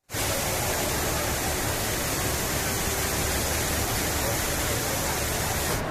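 Steady loud rush of falling water from the Rain Vortex, the giant indoor man-made waterfall at Jewel Changi Airport. It cuts off abruptly at the end.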